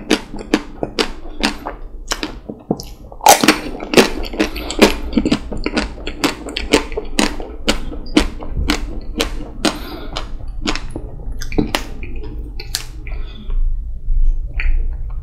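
Close-miked chewing of chocolate-coated ice cream: the hard chocolate shell crackles and crunches between the teeth about twice a second, thinning out after about twelve seconds.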